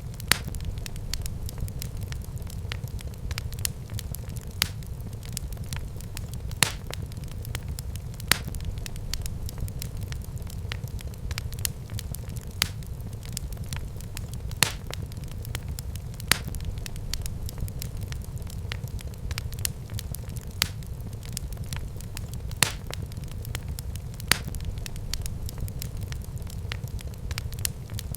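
Wood fire burning in a fireplace: a steady low rumble with sharp pops and crackles every second or two.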